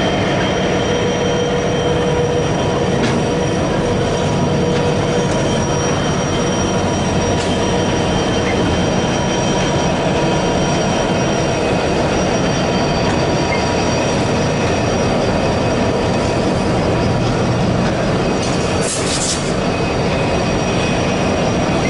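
Pacific National 82 class EMD diesel locomotives and bulk wheat wagons rolling slowly through a curve, engines rumbling under a steady high-pitched squeal of wheel flanges on the curved rail. A brief hiss comes near the end.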